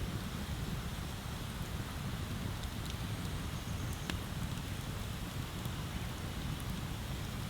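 Wood bonfire burning, with a handful of sharp crackles and pops scattered over a steady rushing noise and low rumble.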